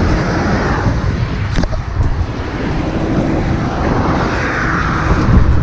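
Motorcycle engine running with a steady low drone.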